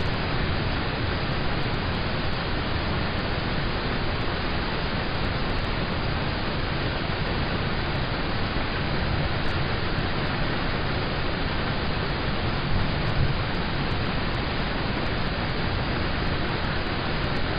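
Steady rain falling on a car, heard from inside the cabin as an even, unbroken hiss.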